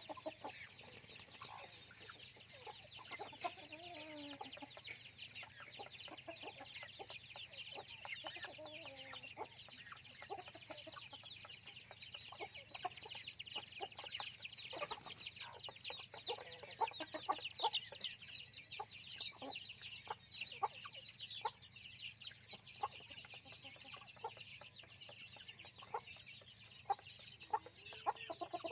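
A flock of chickens clucking, over the constant high peeping of many chicks.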